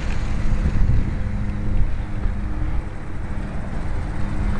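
Gusty wind buffeting the microphone with a low rumble, over the faint, on-and-off hum of a micro RC airplane's electric motor and propeller in flight.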